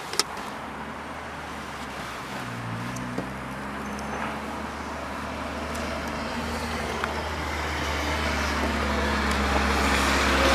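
A sharp click just after the start, then a motor vehicle's engine running that grows steadily louder toward the end.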